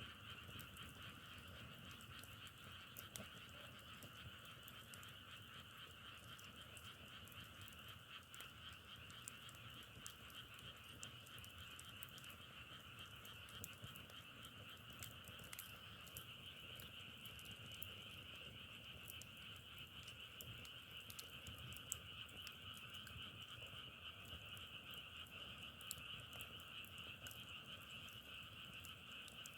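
A frog chorus, many frogs calling continuously as a dense, steady trilling, faint, with scattered faint clicks.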